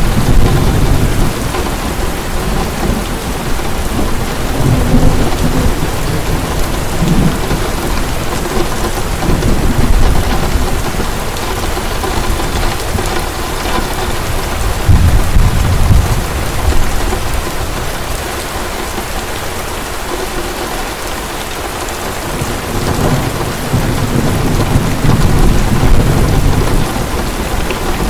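Heavy rain falling steadily, with low rolls of thunder swelling and fading several times, the strongest about halfway through.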